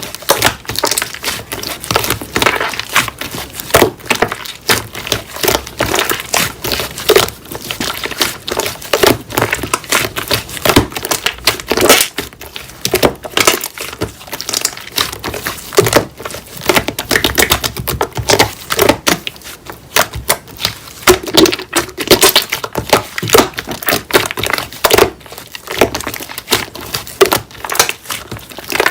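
Slime being squished, pressed and pulled by hand, giving a dense, irregular run of sticky clicks and crackling pops.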